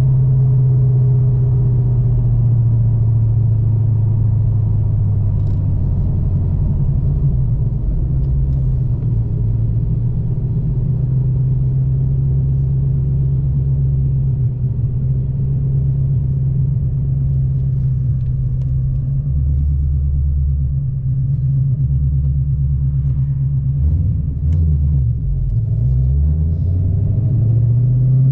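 2013 Mustang GT's 5.0 Coyote V8 running steadily through a cat-delete exhaust with shorty headers, an X-pipe and SVE mufflers, giving a deep, even rumble. The pitch wavers in the last few seconds and starts to climb right at the end.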